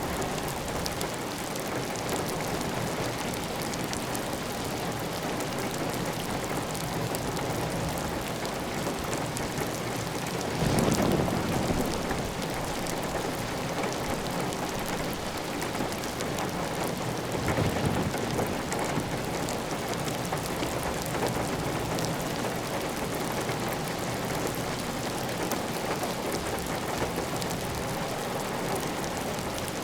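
Heavy rain falling steadily on a tiled roof, with water running off the roof edge. Two brief louder swells rise out of the steady noise, about ten and eighteen seconds in.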